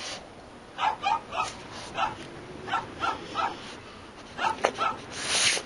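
A dog barking: a string of short, sharp barks in uneven clusters, about nine in all, with a longer, louder, noisier sound near the end.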